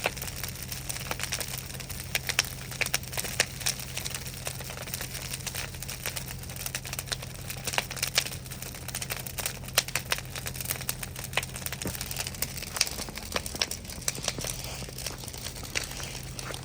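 Big bonfire burning, crackling with frequent irregular sharp pops and snaps.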